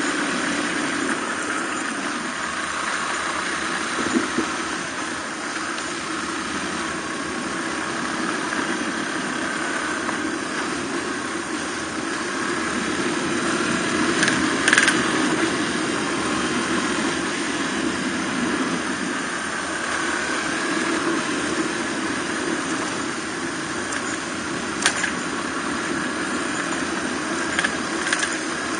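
Suzuki DR250R single-cylinder four-stroke dirt bike engine running steadily while being ridden, heard from on the bike, with a few short sharp knocks along the way.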